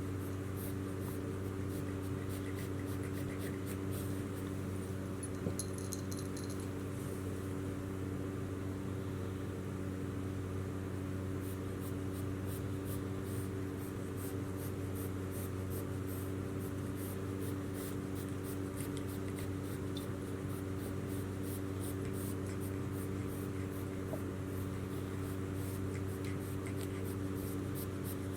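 A steady low hum throughout, with many faint, quick high ticks and clicks scattered over it, thicker in the second half.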